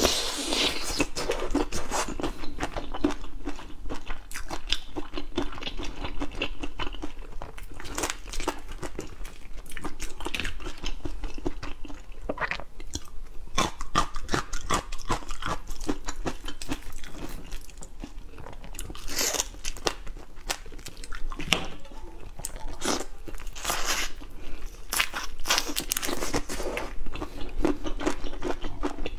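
A person biting and chewing seafood close to the microphone, with continual irregular crunching and crackling.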